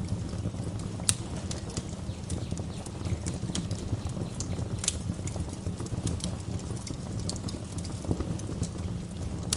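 Wood fire crackling in a fireplace: irregular sharp pops and snaps over a steady low rumble of the flames, with one louder pop about a second in.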